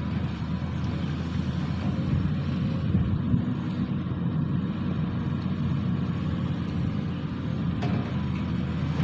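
Sany SY215C excavator's diesel engine running steadily with a low rumble, and a faint click near the end.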